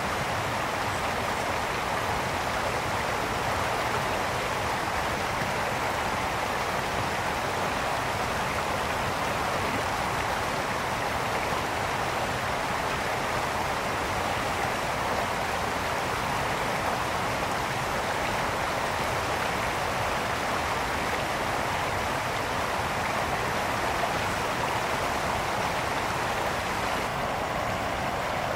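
A brook's water rushing steadily, an even, unbroken flow.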